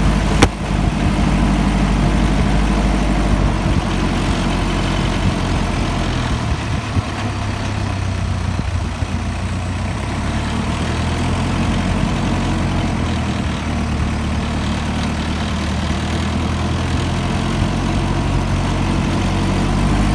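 Kia Sportage engine running steadily at low revs as the 4x4 crawls along a dirt logging trail, with one sharp click about half a second in.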